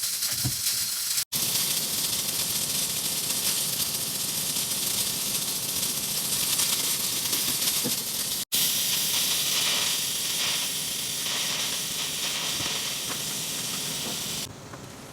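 A steady hissing noise, broken twice by a sudden brief silence, which drops to a quieter hiss near the end.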